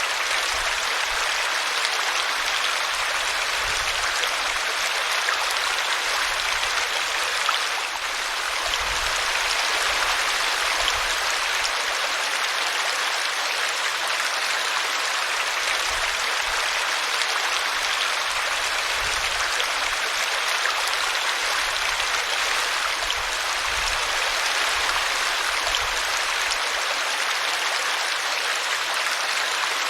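A small brook babbling and splashing steadily as it tumbles over a tree root.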